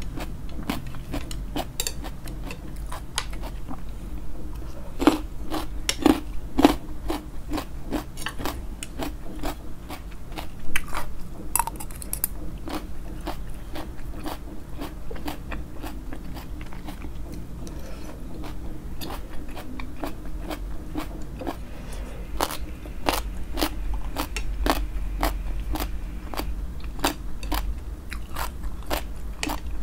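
A person chewing crunchy food close to the microphone, with many sharp, irregular crunches between quieter chewing.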